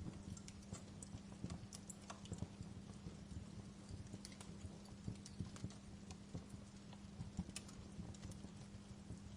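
Wood fire crackling in a fireplace: irregular sharp pops and snaps over a low steady rumble, with a faint steady hum underneath.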